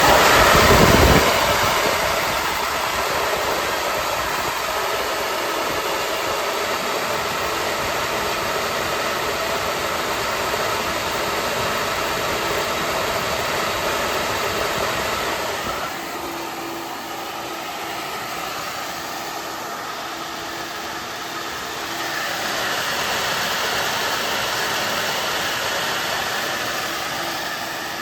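Flow bench running, its motors drawing a steady rush of air through the exhaust port of an LS cathedral-port cylinder head under test. It surges loudly at the start, then settles. About halfway through it gets quieter, and a few seconds later it rises again.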